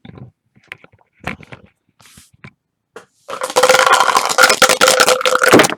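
A pair of dice rattling hard in a hard container for about two and a half seconds, with a ringing resonance, then stopping abruptly; a few light clicks of handling come before it.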